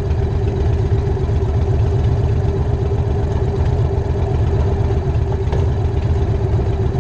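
Harley-Davidson Night Train's V-twin engine idling steadily, a low, even pulsing with no revving.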